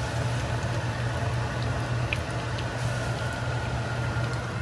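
Egg-dipped bread slices sizzling in hot cooking oil in a frying pan, with scattered small pops and crackles. A steady low hum runs underneath.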